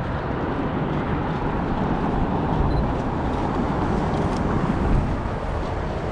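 Steady, loud outdoor city noise: a low rumble of street traffic mixed with wind on the microphone.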